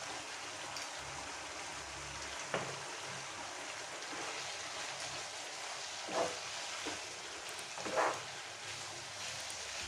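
Chicken and spices frying in oil in a pan, a steady sizzling hiss, with a few short scrapes of the spoon against the pan as it is stirred. The louder ones come about six and eight seconds in.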